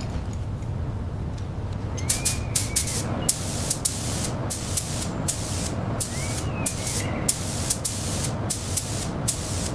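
Repeated short bursts of hissing air over a steady low hum.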